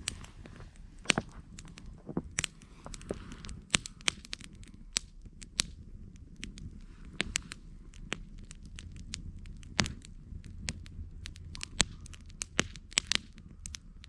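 Campfire burning, with irregular sharp crackles and pops of the wood over a low, steady rumble.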